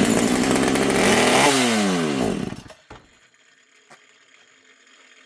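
Old Pioneer P61 two-stroke chainsaw running loud for a couple of seconds, then its engine speed falling away until it stalls. The owner takes the stall for a sign that its Tillotson HS carburettor needs a rebuild kit.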